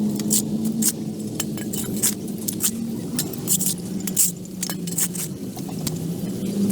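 A small engine running steadily, with many irregular sharp clicks and scrapes over it.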